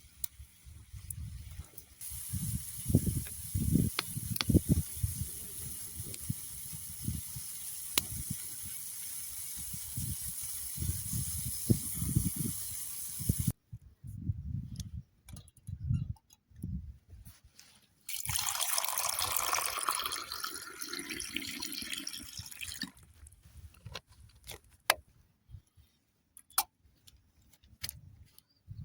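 Liquid being poured in two spells: a long hissing pour, then a shorter one a few seconds later whose pitch shifts as the vessel fills, with low thuds and clicks of handling around them.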